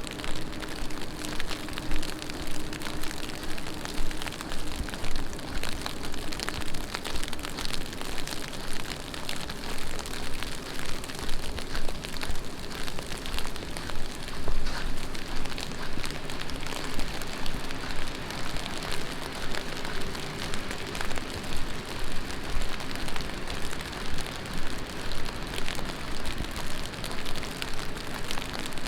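Heavy rain falling on the street and pavement: a steady hiss full of dense, fine drop impacts.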